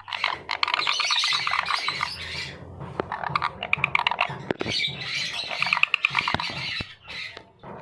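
Parrot chattering and squawking in rapid strings of calls, in two long bouts with a short break about two and a half seconds in.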